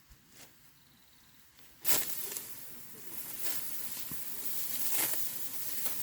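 Dry rice stalks rustling and crackling as they are handled, starting suddenly about two seconds in, with a string of uneven crackly strokes.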